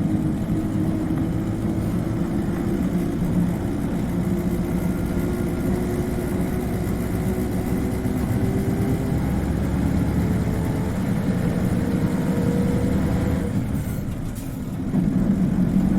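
Isuzu Cubic KC-LV380N city bus's diesel engine heard on board, pulling with its pitch rising steadily for about thirteen seconds, then falling away and dipping before picking up again near the end. A faint high whine runs along with the engine, the distinctive high-pitched note this particular bus is known for.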